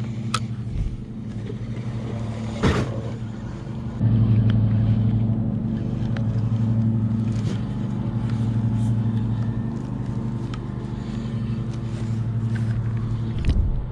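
A motor's steady low hum, getting louder about four seconds in, with a few sharp knocks, the loudest a little before three seconds in.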